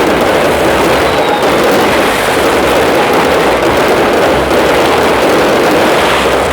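Fireworks display: a dense, unbroken barrage of bangs and crackling with no single standout blast, and a short whistle about a second in.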